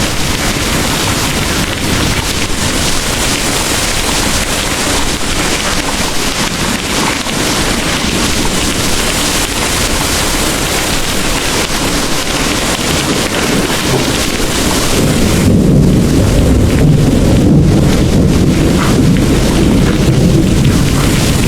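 Heavy rain pouring in a steady hiss. About fifteen seconds in, a deep rumble of thunder swells and dominates while the rain's hiss drops back.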